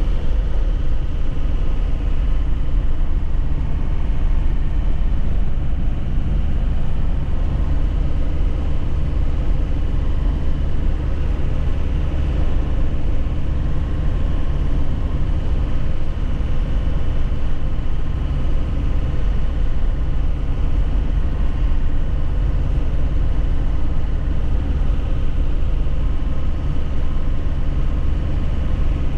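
2001 Nissan Cabstar light truck on the move, its engine running evenly at a steady speed under a haze of road and tyre noise.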